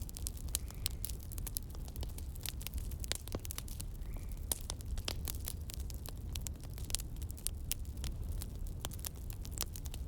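Wood campfire crackling, with many sharp pops and snaps, several a second, over a steady low rumble.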